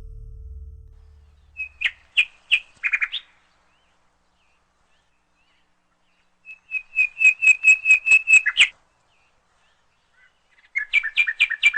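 A songbird singing three short phrases of quick, repeated chirping notes, each phrase a rapid run of sharp high notes; low background music fades out at the start.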